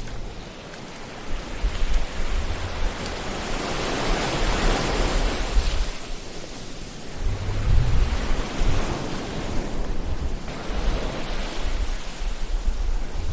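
Ocean waves surging and washing on a shore, the surf noise swelling and easing in slow surges, with a deep low rumble at times.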